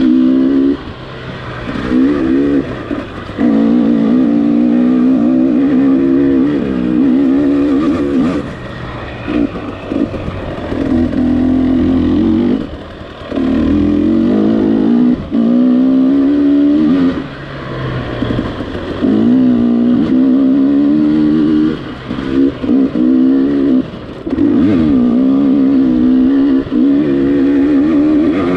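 Gas Gas EX300 TPI two-stroke dirt bike engine under way, the throttle opened in repeated bursts of a few seconds and briefly closed between them, its pitch wavering up and down.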